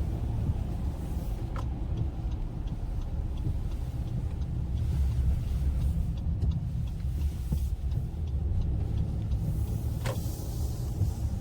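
A 2021 Honda Ridgeline pickup being driven, heard from inside the cabin: a steady low engine and road drone.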